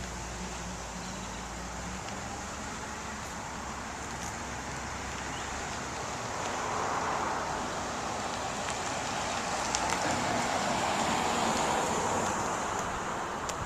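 GMC C6500 dump truck's 8.1-litre gasoline V8 running as the truck drives along the block. A low engine hum fades about two seconds in, then a louder rushing sound swells from about halfway and eases near the end.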